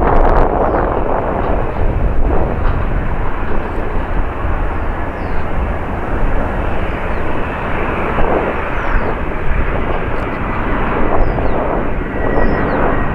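Jet airliner engines, a loud continuous rumble and rush, with a faint high whine coming in over the last few seconds.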